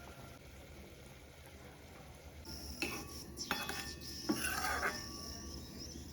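A cooking spoon knocking against a pot a few times as a curry is stirred, over a faint sizzle that starts about two and a half seconds in.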